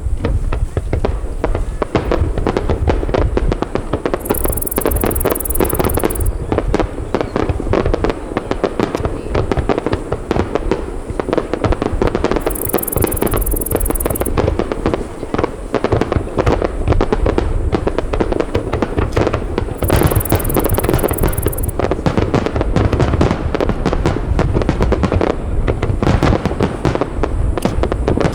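Aerial firework shells bursting in a dense, continuous barrage of booms and bangs, with three spells of high crackling hiss over the top.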